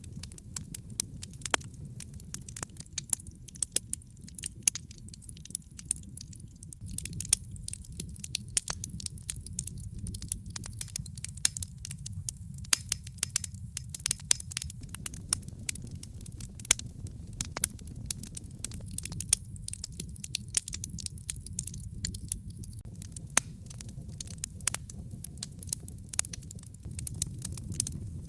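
Wood fire crackling and popping in a fireplace, irregular sharp snaps over a steady low rumble of the flames.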